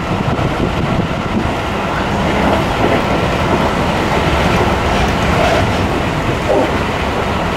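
Running noise inside a Seibu 40000 series electric train car under way: a steady rumble of wheels on the rails.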